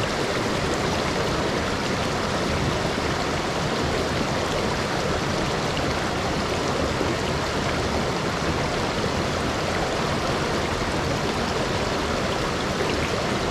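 Steady rushing of a mountain headwater stream, an even, unbroken water noise.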